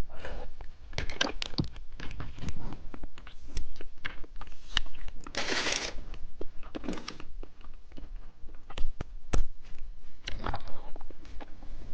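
Close-up eating of candy: a string of crunches and crackles as it is bitten and chewed. There is a longer crinkling rustle, like a wrapper, about five seconds in.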